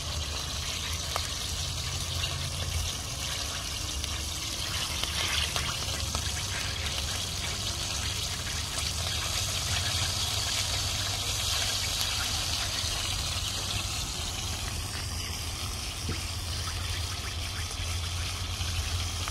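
American eel fillets sizzling in hot oil in a wide steel pan over a portable gas burner: a steady, dense hiss that does not let up, with a steady low rumble underneath.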